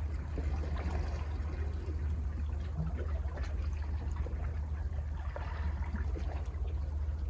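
Sea water washing and trickling over rocks below a cliff, a fizzing wash over a steady low rumble.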